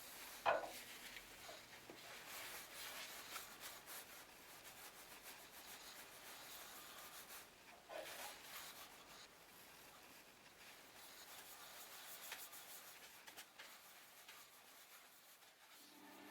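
Faint rubbing and scratching by hand, like light hand-sanding or wiping, with a light knock about half a second in and another about eight seconds in.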